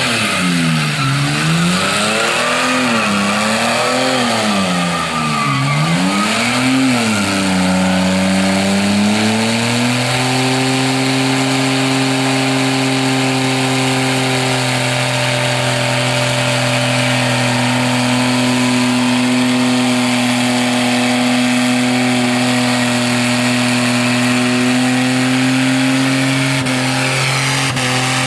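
Holden VN Commodore wagon's engine in a burnout, revved up and down about three times, then held at steady high revs from about ten seconds in, with the rear tyres spinning against the track.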